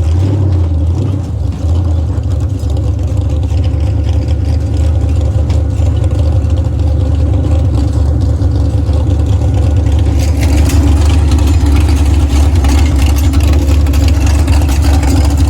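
Monster truck engine running with a loud, steady low drone; about ten seconds in it grows louder and harsher, with more rattle and rushing noise on top.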